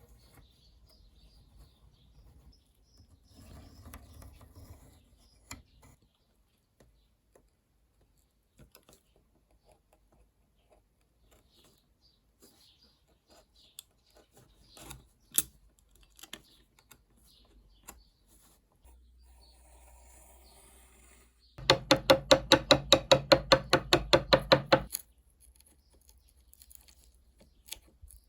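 Small workshop handling noises: scattered clicks and taps on a knife being restored. About three quarters of the way through comes a loud, even run of about twenty sharp ringing strikes, some six a second, lasting about three seconds.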